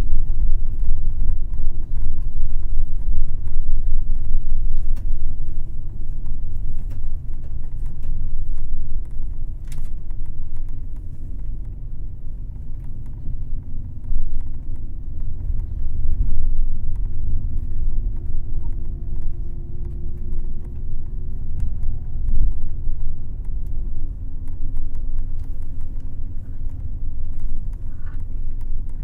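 Airport limousine coach on the move: a heavy, steady low rumble of engine and road, with the engine note shifting in pitch a few times as it changes speed.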